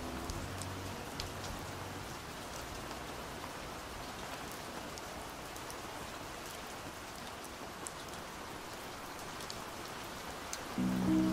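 Steady rain with scattered drops ticking, a rain track laid under the playlist. The last low notes of a song die away in the first second, and a slowed, muffled song comes in just before the end.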